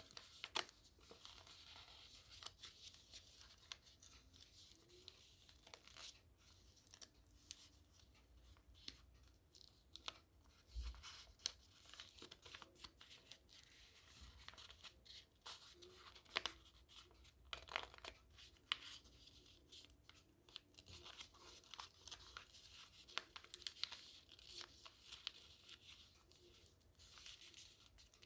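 Sheet of origami paper being folded and creased by hand, with faint, irregular crinkling and crackling.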